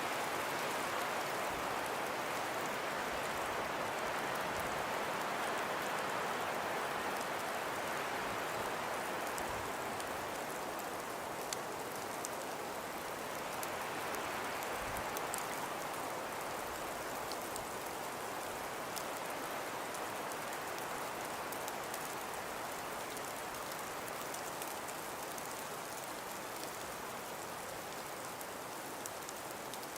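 Steady hiss of wind and blowing snow in a winter storm, swelling and easing slowly, with a few faint ticks.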